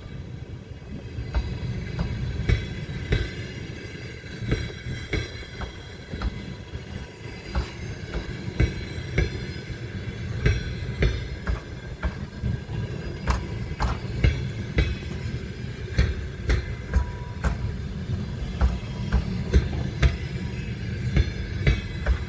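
Passenger train departing, its wheels rumbling and knocking over rail joints and points, the knocks coming more often toward the end, with a thin steady wheel squeal above.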